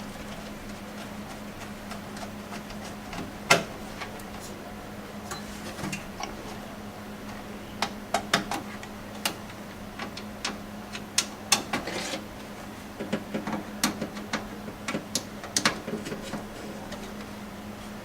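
Screwdriver tightening motherboard screws into the case's standoffs: irregular small metal clicks and ticks, few at first and coming thick and fast in the second half, over a steady low hum.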